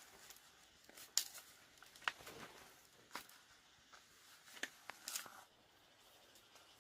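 About half a dozen sharp clicks and snaps, scattered irregularly over the first five seconds, with faint rustling between them: close handling or cutting noises.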